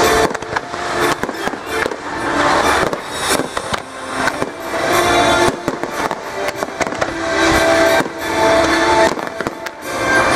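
Aerial fireworks bursting and crackling, many reports in quick, irregular succession, with music playing underneath.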